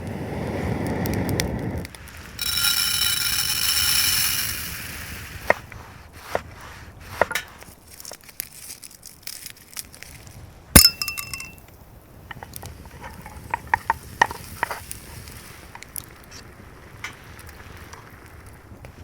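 Clinks and knocks of hard objects being handled. The loudest is a single sharp clink that rings on briefly, about eleven seconds in. Near the start a high ringing tone sounds for about two seconds.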